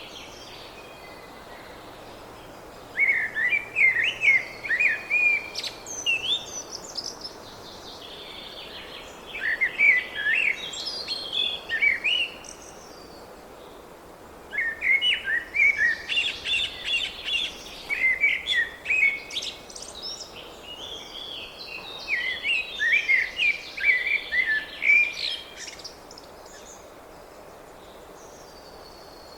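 A songbird singing in four bouts of rapid, chirpy notes, each lasting a few seconds with short pauses between, over steady background noise.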